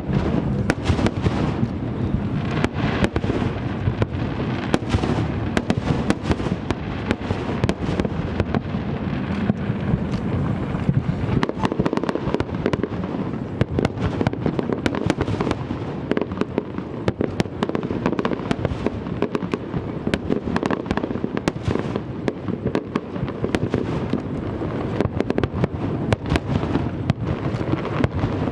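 A large aerial fireworks display: shells bursting in a dense, unbroken barrage of booms and sharp crackles, many per second, over a continuous low rumble.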